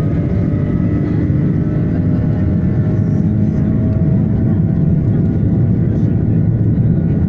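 Airbus A330-300 jet engines at take-off thrust, heard from inside the cabin: a loud, steady roar with a faint whine above it that slowly rises in pitch.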